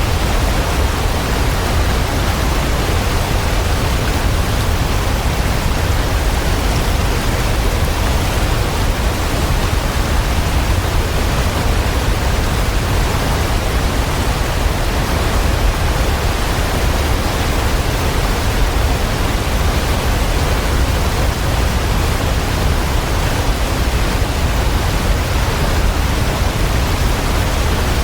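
Waterfall: a steady rush of falling water, an even hiss with its strongest part in a deep low rumble, unchanging throughout.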